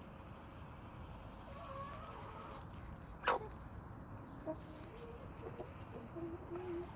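Chickens clucking softly with short low notes, over a steady low background hum, with a single sharp click a little over three seconds in and a few lighter taps.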